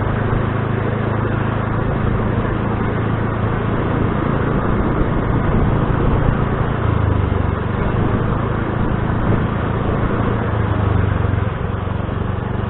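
Motor scooter's engine running while riding, under a steady rushing noise; the low engine note shifts about seven seconds in and again near the end.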